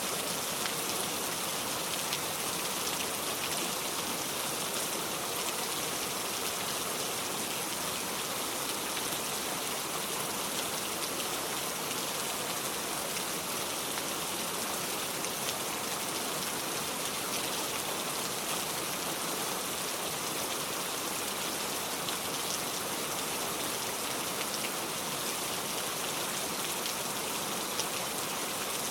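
Heavy rain falling steadily on a metal roof: a dense, even patter of drops with no thunder.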